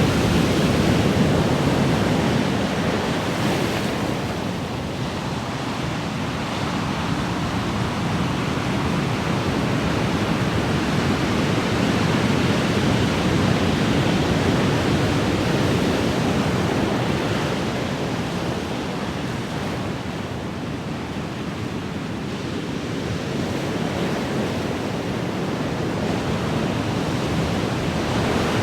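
Ocean waves breaking and washing on a shore, a continuous rush of surf that swells and eases slowly, loudest near the start, about twelve seconds in, and near the end.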